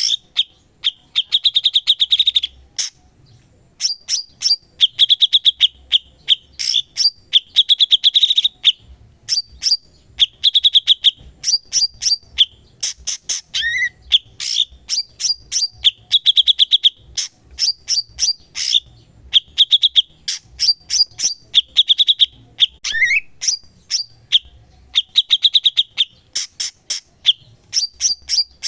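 Cucak cungkok (a leafbird) singing continuously in rapid phrases of sharp chips and buzzy trills. The phrases repeat every second or so with short gaps, and an upward-slurred note comes twice.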